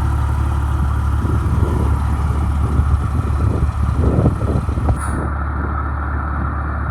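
Detroit Diesel Series 60 inline-six diesel in a 1998 Pierce Quantum fire truck, idling with a steady low drone. A few irregular knocks and rattles come through partway in.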